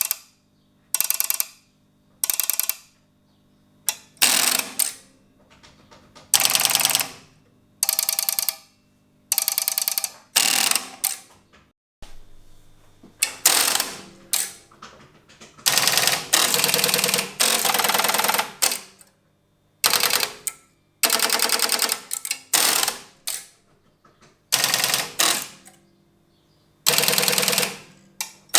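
Strowger telephone exchange switches stepping: bursts of rapid clicking, each lasting from about half a second to two seconds, repeating with short pauses between.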